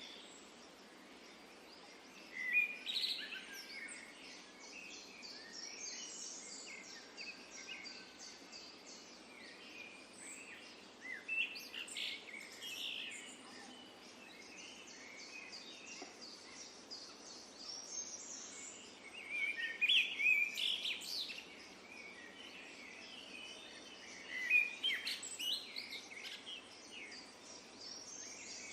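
Several songbirds chirping and calling in short, quick clusters that come and go several times, over a steady outdoor background hiss.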